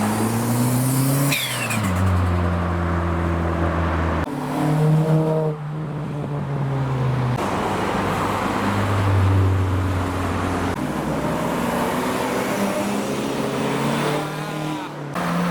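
Several modified cars driving past one after another, their engines revving up and easing off as they pull through and accelerate away. The engine note changes abruptly a few times as one car gives way to the next.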